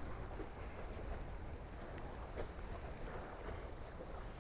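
Wind buffeting the microphone and water noise aboard a Tornado racing catamaran under sail: a steady rushing hiss over a low rumble, with a few faint ticks.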